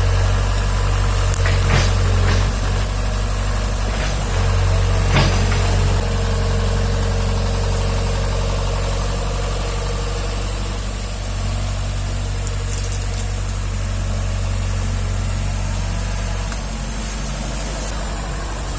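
Excavator's diesel engine running steadily with a low drone, with a few sharp knocks in the first several seconds and the engine settling slightly lower near the end.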